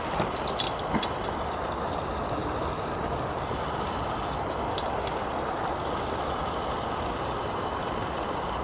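Trangia gas burner running under a pan of potato and cauliflower curry sizzling in oil: a steady rushing hiss, with a few small clicks in the first second.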